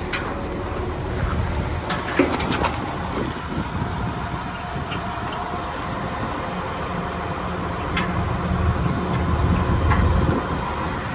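Engine running steadily with a low rumble, with a few metallic clanks and clinks about two seconds in and again later.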